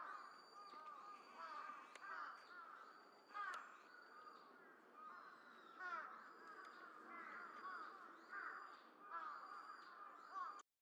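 Faint bird calls: many short notes that bend up and down, coming thick and fast as if from several birds, cutting off suddenly near the end.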